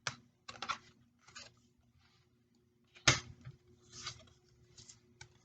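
Tarot cards being handled: a few short snaps and rustles of card stock, the sharpest at the start and about three seconds in.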